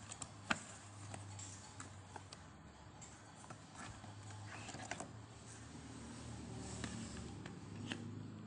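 Faint scattered clicks and taps of small objects being handled, over a low steady hum; the sharpest click comes about half a second in.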